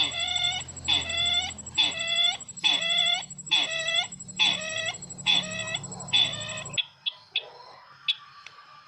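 Recorded call of the sisintar ladang bird played as a lure: a harsh, many-toned call repeated about once a second, eight times, over a steady high whine and low hum from the playback, cutting off abruptly near the end. Faint scattered chirps follow.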